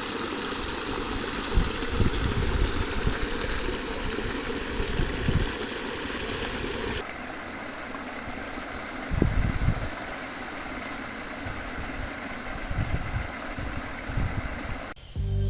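Running water of a mountain stream, a steady rushing hiss, with gusts of wind buffeting the microphone in low rumbles; the sound changes abruptly about seven seconds in.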